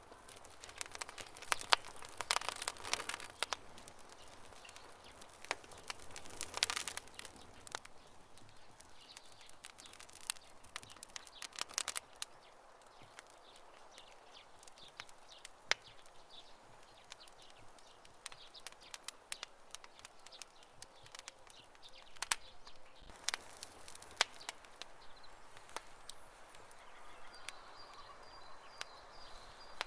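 Campfire crackling: irregular sharp pops and snaps from burning wood, bunched more thickly about two and seven seconds in and again near the middle, over a faint steady hiss.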